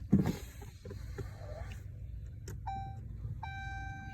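A thump, then from about two and a half seconds in the Dodge Challenger R/T's electronic warning chime starts, a clear tone repeating about once a second.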